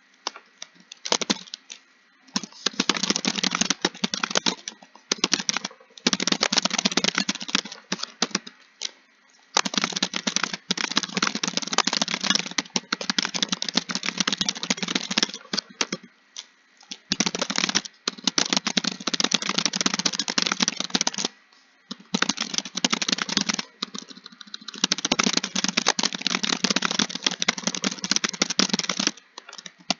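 Fast typing on a computer keyboard: dense runs of key clicks lasting a few seconds each, broken by short pauses.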